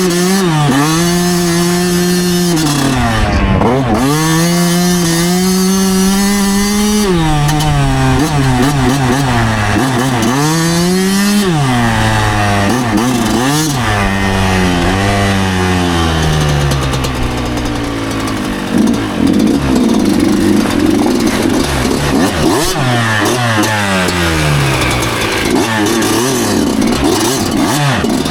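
2009 Yamaha YZ125's 125cc two-stroke single-cylinder engine revving up and dropping back over and over, its pitch climbing and falling every couple of seconds as the throttle is opened and closed through the gears.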